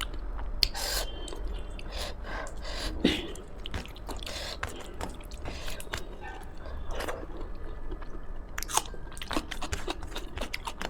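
Close-miked chewing and mouth sounds of a person eating homemade Indian food, with irregular wet smacks and soft crunches.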